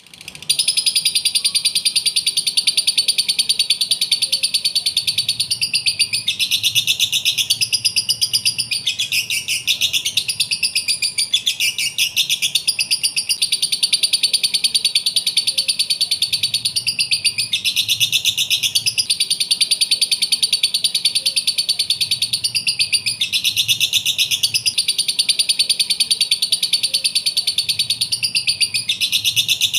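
Lovebird chattering: an unbroken run of rapid, high-pitched chirps, swelling into denser bursts of calls several times.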